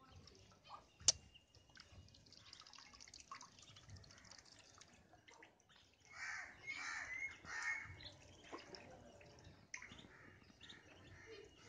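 A run of bird calls about six seconds in, over faint outdoor ambience with light water drips and splashing from ducklings in a water trough; a single sharp click about a second in.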